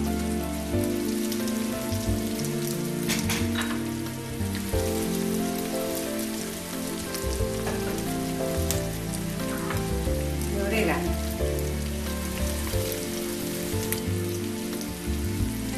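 Cubed blood, onion and pine nuts frying in olive oil in a frying pan: a steady sizzle with a few sharp pops, with low steady tones that shift in steps underneath.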